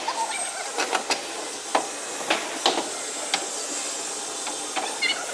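Metalwork on a truck cab panel: a steady hiss with sharp, irregularly spaced knocks and clicks, about eight over five seconds.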